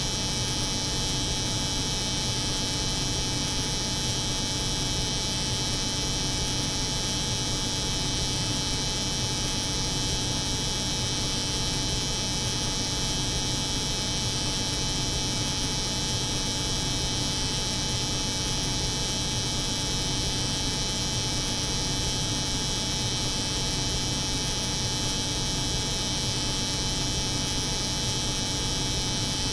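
Steady, unchanging layered drone of a cold room's refrigeration hum mixed with the buzz of an electric hair clipper, with a thin steady tone and a bright hiss above it.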